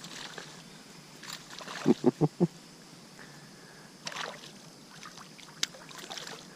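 Handling sounds on a fishing kayak: four quick knocks in about half a second, then a short splash of water a couple of seconds later.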